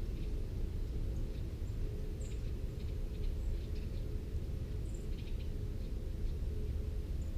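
Small birds giving short, high call notes now and then over a steady low rumble.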